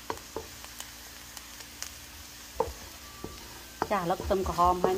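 Chopped shallots and garlic sizzling in oil in a wok as they are stirred with a wooden spatula, with a few sharp knocks of the spatula on the pan. Near the end a brief voice-like pitched sound rises over the sizzle and is the loudest thing heard.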